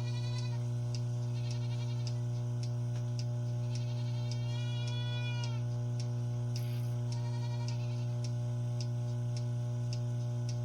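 Goats bleating four times, the longest call about halfway through, over a steady low electrical hum and a regular ticking about two to three times a second.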